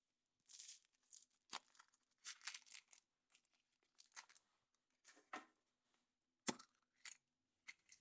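Foil wrapper of a chocolate surprise egg being torn and crinkled off by hand, in irregular rustling bursts, with a few sharp snaps; the loudest comes about six and a half seconds in.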